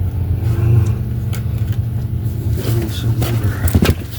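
Steady low mechanical hum, with a few sharp metal knocks and clicks near the end as the engine is lowered against the transmission.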